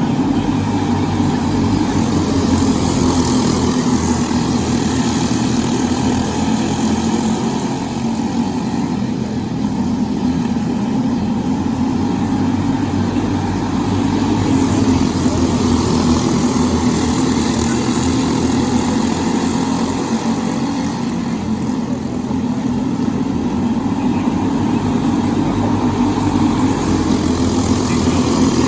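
Briggs & Stratton LO206 kart engine, a 206 cc four-stroke single, running steadily, its level easing and rising again a few times.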